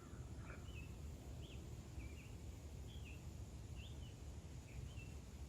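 A bird giving faint, short chirps about once or twice a second, over a steady low background rumble.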